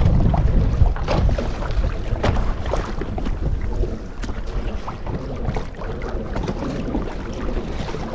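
Wind buffeting the microphone as a loud low rumble, with scattered clicks and knocks throughout; it cuts off abruptly at the end.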